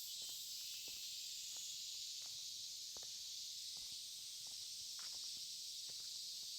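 A steady, high-pitched chorus of insects, with a walker's soft footsteps at an even pace, about one step every 0.7 seconds.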